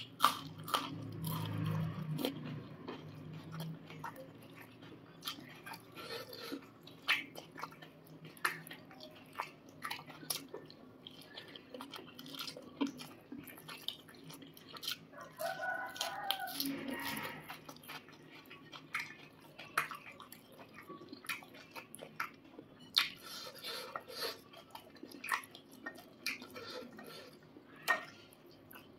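Close-mic mouth sounds of someone eating: chewing and crunching raw chilies and green onion with rice, with many short wet clicks and smacks.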